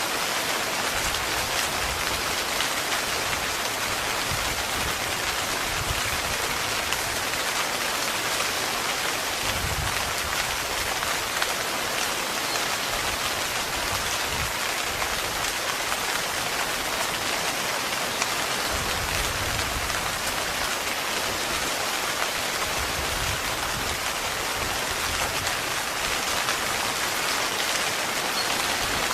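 Heavy rain falling steadily on a tent, thick with separate drop hits on the fabric, with low rumbles about ten and twenty seconds in.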